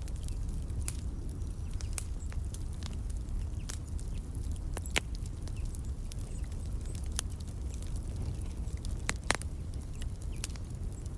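Wood fire crackling in a fireplace: irregular sharp pops and snaps over a steady low rumble, with two louder pops about halfway and near the end.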